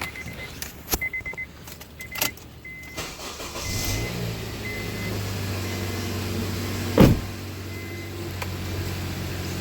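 Cold start of a 2009 Honda CR-V: a few clicks and a repeating short warning chime, then the engine cranks, catches about four seconds in and settles into a steady idle, with one sharp knock about seven seconds in. With a new power steering pump fitted, it idles cold without the noise the failed pump made.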